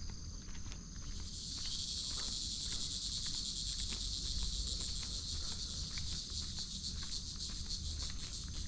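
Evening insect chorus, a dense high-pitched buzz that swells in about a second in and holds steady, with the soft irregular ticks of footsteps on a path beneath it.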